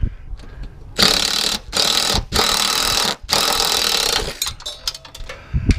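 Impact wrench ("burp gun") run in four short bursts, hammering at a stuck mower-deck spindle part to break it loose.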